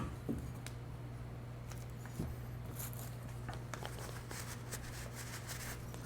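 Faint handling noises while dust is cleaned off a disco light's parts: soft rubbing and scattered light clicks, with a soft knock twice, over a steady low hum.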